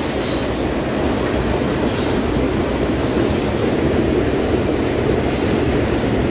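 Loaded ribbon rail freight train rolling past, a steady rumble of steel wheels on rail. The higher hiss thins out after about two seconds as the end of the train goes by.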